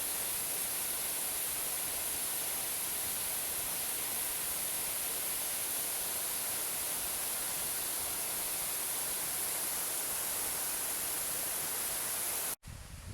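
Waterfall rushing with a steady, even hiss that cuts off suddenly near the end.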